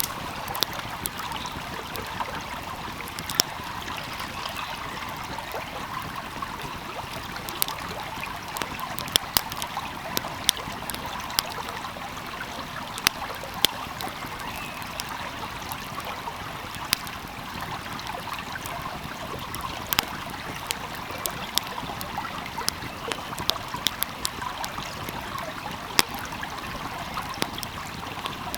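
A steady flowing stream, with the irregular sharp pops and crackles of a burning fire on top, some seconds busier with pops than others.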